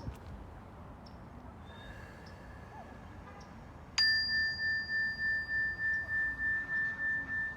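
Meditation bell struck once about four seconds in, ringing on in one clear high tone whose loudness wavers as it sustains: the signal that the breathing time is over and it is time to open the eyes. Before it, only a faint outdoor background with a few small chirps.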